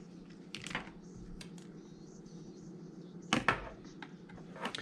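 Faint scattered clicks and taps, with a louder short clatter about three and a half seconds in, over a steady low hum.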